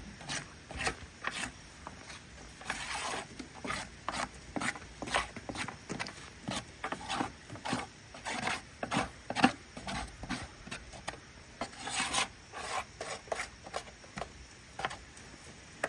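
Wet plaster mix being stirred and scraped in a container with a utensil: a run of short, irregular scraping strokes, roughly two or three a second, getting the last of the powder mixed in and the mix pushed down.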